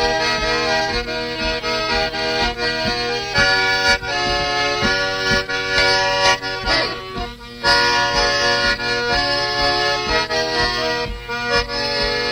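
Accordion playing the opening instrumental of a song: sustained chords over a steady bouncing rhythm.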